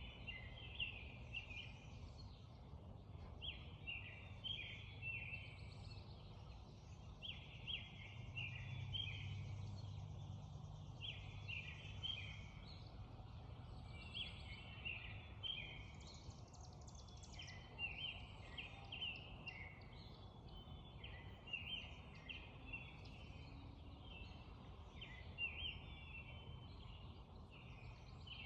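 Birds singing in short, quickly repeated phrases, about one every second or so, over a faint low steady rumble.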